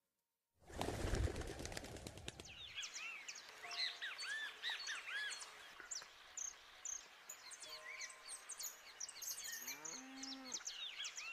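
Countryside ambience: many small birds chirping, with a cow mooing a few times in the second half. It opens about half a second in with a loud noisy rush lasting about two seconds.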